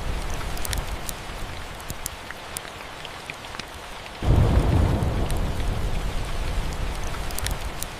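Steady rain with thunder: a low rumble fades out over the first two seconds, then about four seconds in a louder rumble starts suddenly and slowly dies away. Scattered small sharp crackles run through the rain.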